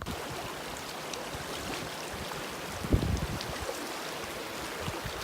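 River water running in a steady rush, with a brief low bump about three seconds in.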